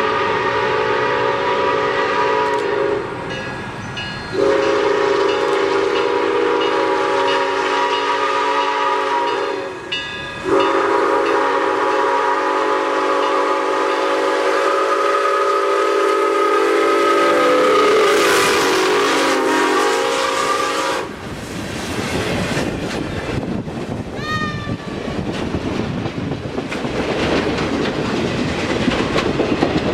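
Steam locomotive whistle sounding a several-note chord: a blast ending about three seconds in, then two long blasts, the second about ten seconds long and sagging in pitch at its end. After it the train runs on with a steady rumble and clatter of wheels and steam.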